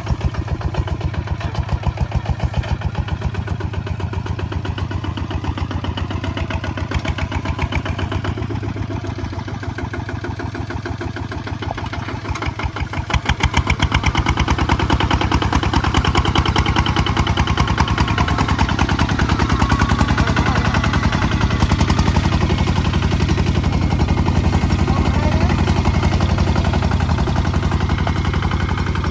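Kubota ZT155 DI single-cylinder diesel engine running steadily with a fast, even chugging. It gets louder about halfway through.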